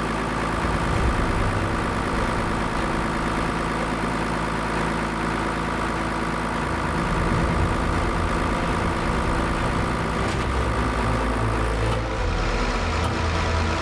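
Machinery running steadily, a continuous drone with many even tones and a low rumble that shifts in level about seven and again about twelve seconds in.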